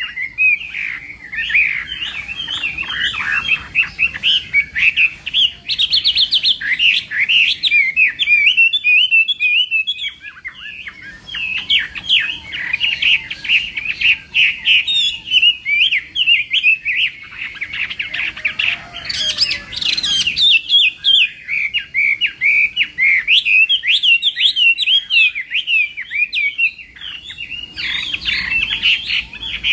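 Chinese hwamei (họa mi) singing a long, rapid, continuous warbling song of quickly changing notes, with a brief higher phrase about two-thirds of the way in.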